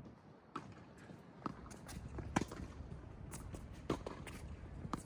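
Scattered sharp taps and knocks on a tennis court, about a dozen spread irregularly over five seconds, over a low background rumble.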